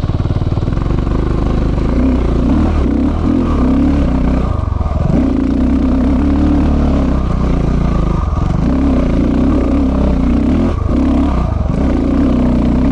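KTM 690 Enduro's single-cylinder engine pulling hard under load as the bike climbs a steep dirt hill, the engine note dipping briefly a few times as the throttle eases and comes back on.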